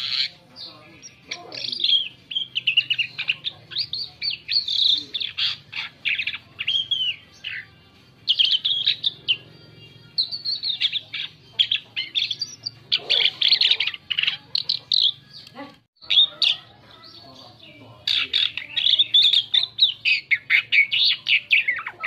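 Asian pied starling (jalak suren) singing a varied, chattering song of quick whistled and squeaky notes, in phrases broken by short pauses.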